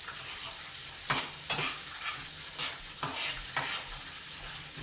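Food sizzling in hot oil in a frying pan, with a utensil stirring and knocking against the pan about five times.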